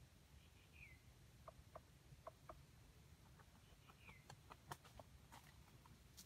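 Near silence with faint short falling bird chirps, twice, about three and a half seconds apart, and scattered light ticks and clicks through the second half.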